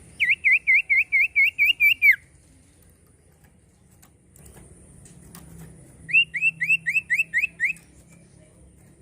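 Common iora singing: a quick run of about nine loud, clear whistled notes, then after a pause a second run of about eight upslurred whistles.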